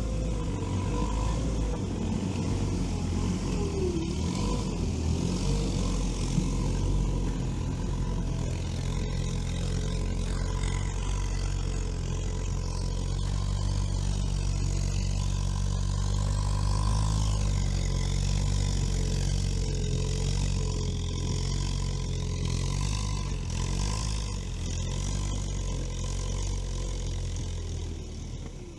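Veter all-terrain vehicle's engine working steadily under load as it drives up a snowy slope, with a higher whine wavering in pitch above it. The sound eases off near the end.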